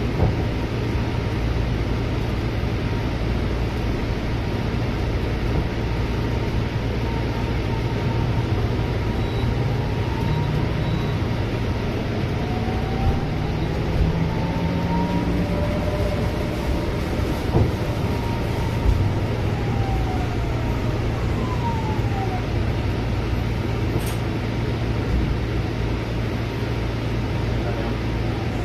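Interior of a Scania bus with a Bustech VST body: steady engine and road rumble. Faint whining tones rise and fall about halfway through.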